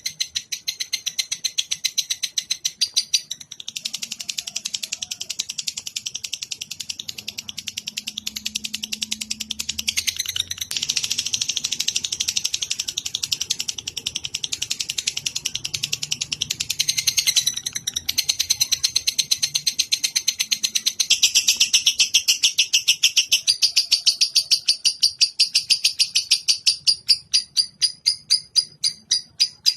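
A songbird's long, very fast trill of high chirps, changing pattern every few seconds and breaking into slower, separate chirps near the end, played as a masteran song-training recording.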